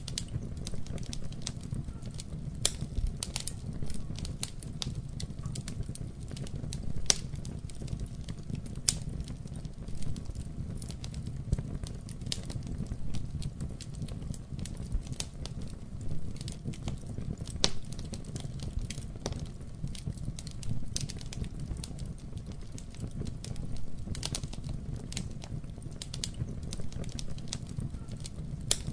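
Wood fire burning in a fireplace: a steady low rumble of flames with irregular crackles and frequent sharp pops of burning logs.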